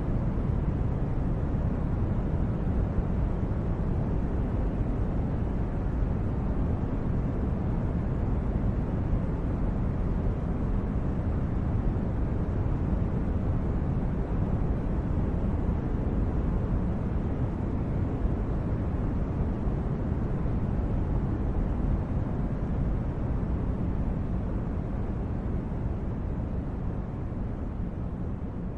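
A steady, low, rumbling noise bed with no distinct events, easing down slightly near the end.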